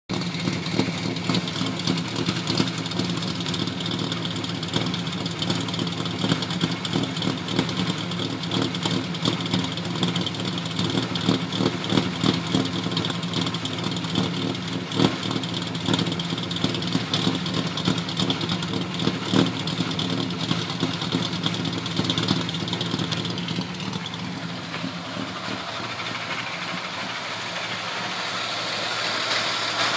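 Ford ED Falcon engine with a big cam and high compression idling, with an uneven, pulsing beat. It holds an idle on a J3 performance chip, without which it will not idle.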